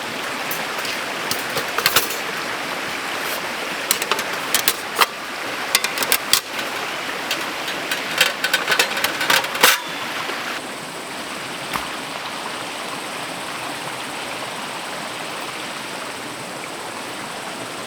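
Valley stream flowing over rocks, a steady rush of water, with many sharp clicks and knocks scattered through the first ten seconds.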